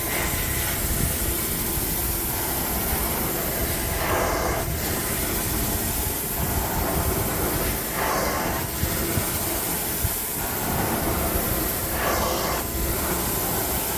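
Hot water extraction wand working a carpet: a steady vacuum rush, with a louder hissing surge about every four seconds as the wand is stroked across the carpet.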